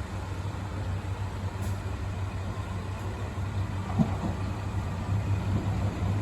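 Steady low rumble of a train running, growing a little louder toward the end, with a small knock about four seconds in.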